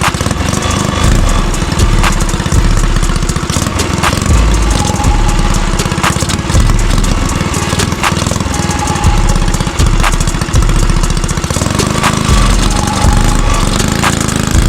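Motovox mini bike's small single-cylinder four-stroke engine, fitted with a cam, idling unevenly with a choppy, lumpy beat while it struggles to hold a steady idle. A sharp tick comes through about every two seconds.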